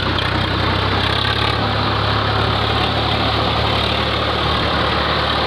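Tractor engine running steadily with an even, low note.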